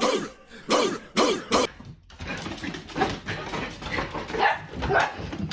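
A dog barking and vocalising in short, separate calls, with a change of recording about two seconds in.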